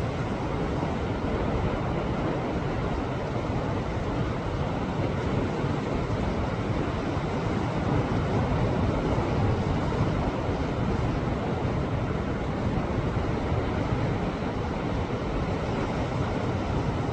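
Sea waves surging and washing against a rocky shore: a steady rush of surf that swells a little about halfway through.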